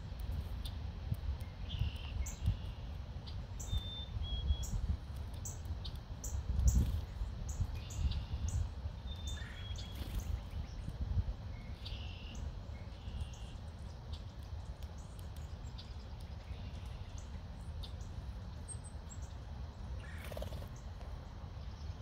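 Wild songbirds giving short, high chirps now and then over a steady low rumble, with many sharp ticks through the first half and one falling call near the end.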